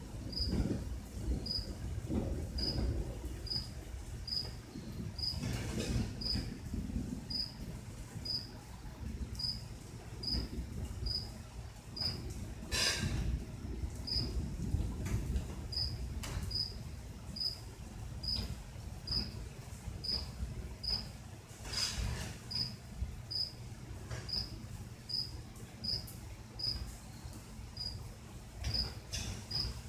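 A cricket chirping steadily, one short high note repeated a little more than once a second, over a low rumbling background with a few sharp clicks.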